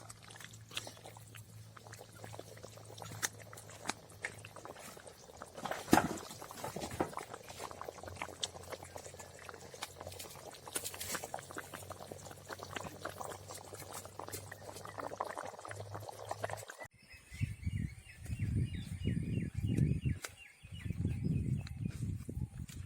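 Chicken gravy cooking in a pot: the liquid bubbling with dense scattered pops and clicks over a low steady hum. About seventeen seconds in, the sound cuts to low rumbling bursts.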